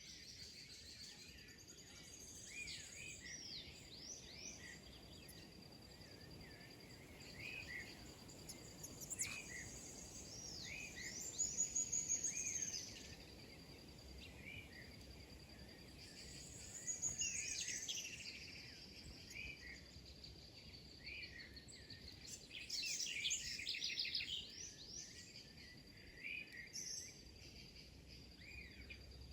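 A crowd of small birds chirping and calling, many short rising-and-falling chirps overlapping, with busier, louder flurries a few times. Under them runs a steady high-pitched pulsing trill, like an insect.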